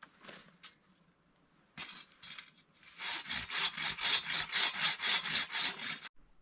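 Hand saw cutting through wood, likely firewood for the campfire. A few tentative strokes come first, then about three seconds of quick, even strokes at roughly four a second that stop abruptly.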